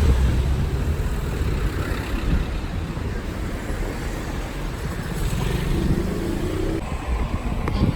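Steady low rumble of a road vehicle running, with no pauses.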